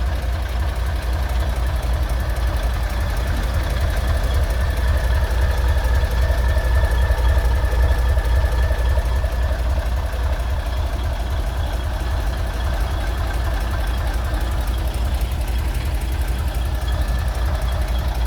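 Fiat 190-48 truck's diesel engine running steadily at a deep idle, swelling a little louder for a few seconds around the middle.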